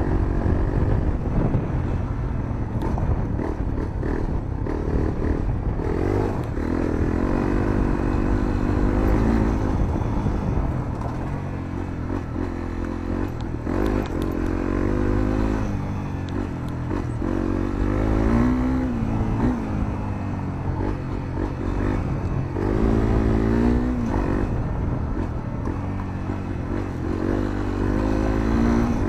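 Honda CRF250L's single-cylinder four-stroke engine through a Moriwaki aftermarket muffler, heard onboard while riding: the revs climb and drop again and again as the throttle is opened and closed. A steady low rumble runs underneath.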